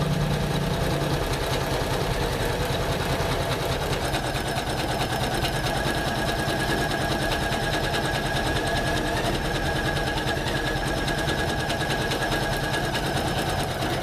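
Janome MC500E computerized embroidery machine stitching continuously at a steady fast rate, with a faint steady whine through the middle.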